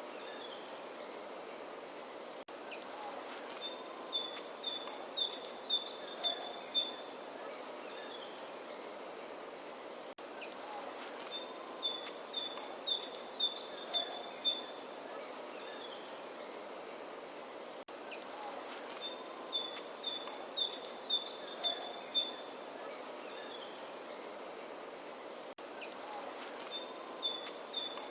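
Songbird singing the same phrase over and over: a few high notes sliding down, then a run of quick two-note chirps. The phrase comes back about every eight seconds, four times, over a steady outdoor hiss.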